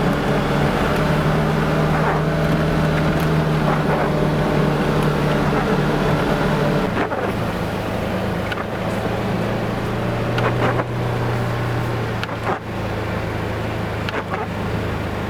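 A vehicle engine running steadily under load, then dropping to a lower, softer pitch about seven seconds in as it eases off. A few short knocks are heard in the second half.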